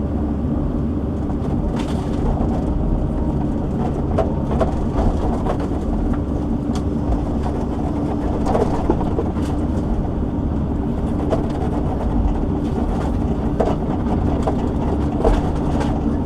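Logging shovel (excavator log loader) running steadily as it works logs, a low engine hum with a held tone, and scattered clicks and knocks throughout.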